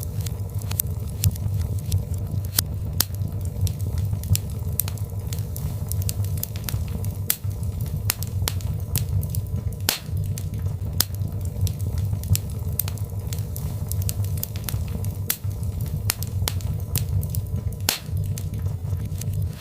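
Birch logs burning in a fireplace: irregular sharp crackles and pops, several a second, over a steady low rumble of the fire.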